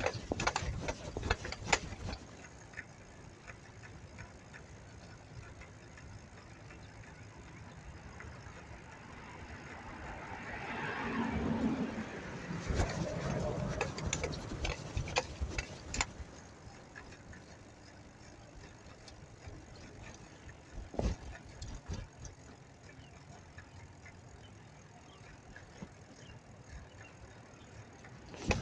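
Street traffic heard from a moving bicycle. A motor vehicle passes about a third of the way in, growing louder and then fading. Scattered clicks and knocks sound around it, thickest at the start.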